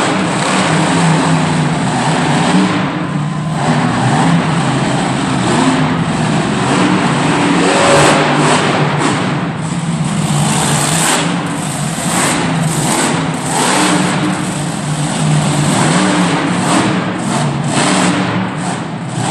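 Monster truck engine revving hard, its revs rising and falling over and over.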